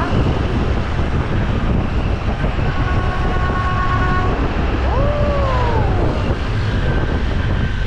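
Steady rumble of wind and road noise while riding a motorcycle. A horn-like tone is held for about two seconds, starting some two and a half seconds in. A shorter tone rises and then falls a little after five seconds.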